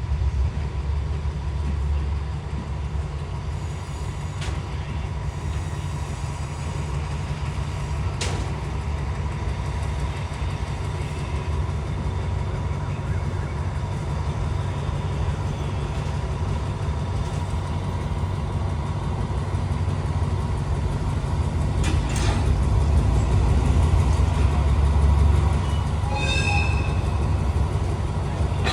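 Diesel train engine running steadily, a deep rumble with a faint steady whine above it, swelling a little louder after about twenty seconds.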